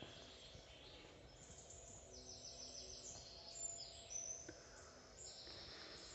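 Faint birdsong: high chirps and quick trills over a soft hiss, with a trill about two seconds in and another near the end. Indoors in a nature museum, this is most likely a recorded forest soundscape played in the exhibit hall.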